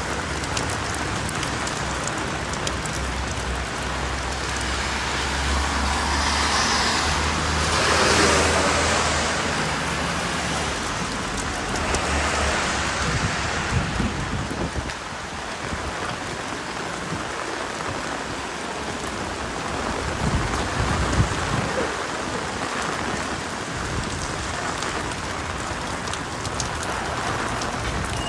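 Steady rain falling on a city street, with a vehicle passing on the wet road: its engine hum and tyre hiss swell to a peak about eight seconds in and fade. A few brief knocks come later.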